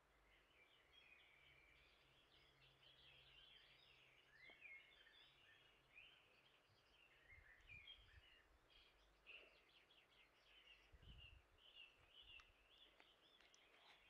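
Near silence, with faint background birdsong of small birds chirping and twittering throughout, and a couple of soft low thumps in the second half.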